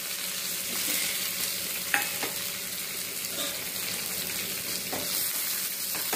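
Tempering frying in hot coconut oil in a small metal pan: mustard seeds, shallots, curry leaves and a dried red chilli sizzling steadily as a spoon stirs them. A few sharp clicks come through, the strongest about two seconds in.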